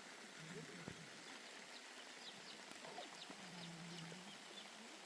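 Faint outdoor ambience with two quiet low animal calls, one about half a second in and a longer one around the middle, and a scattering of tiny high chirps.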